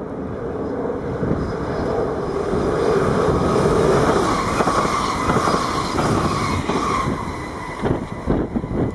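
Train running past at the station, swelling to its loudest about three to four seconds in with a steady whine, then wheels clattering over the rail joints in the last seconds.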